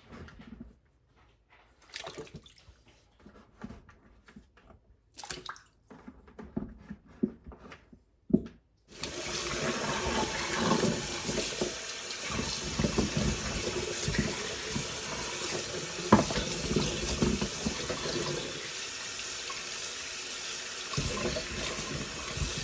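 Scattered light knocks and clicks, then about nine seconds in a tap is turned on and water runs steadily into a sink, with occasional knocks of something being handled in the stream.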